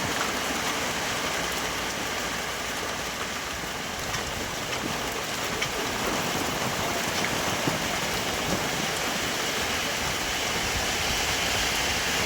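Heavy rain falling steadily, with a few sharper drop taps standing out.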